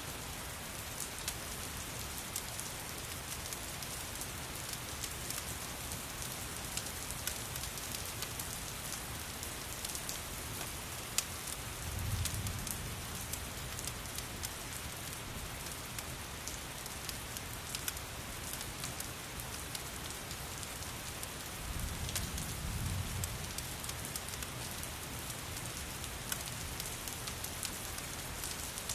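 Steady rain hissing, mixed with the scattered crackle and pops of a wood fire in a fireplace. A low rumble swells twice, about a third of the way in and again past two thirds.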